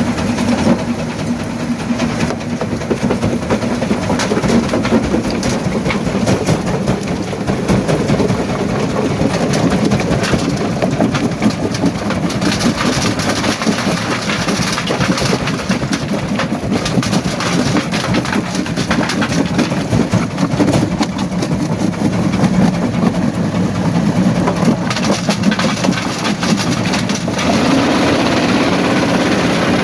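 Primary jaw crusher running under load: a steady low machine drone with dense cracking and clattering of rock being crushed. Near the end the drone turns steadier and a little higher.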